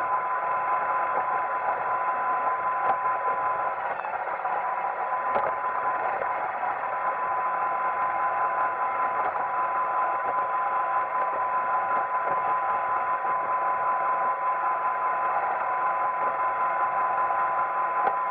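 Roomba 880 robot vacuum running: a steady whirring hum with a constant whine, which briefly drops out about four seconds in, and a couple of faint clicks.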